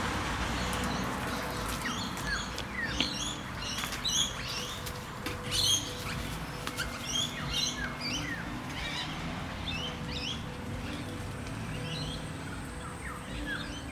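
Small birds chirping: many short, high calls in quick succession, some in rapid clusters, over a faint steady hum.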